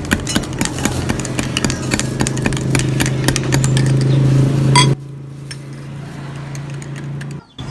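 A small engine humming steadily, with sharp clicks and clatter over it. About five seconds in the sound drops abruptly, and a quieter hum carries on.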